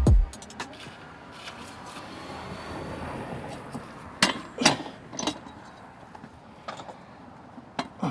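Faint steady road noise from a moving vehicle, with a handful of sharp clicks or rattles about four to five seconds in and again near the end.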